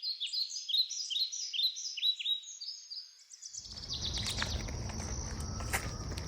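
A songbird singing a rapid run of short, falling chirps for about three and a half seconds. Then outdoor sound comes in: a steady high insect trill over a low rumble, with a few clicks.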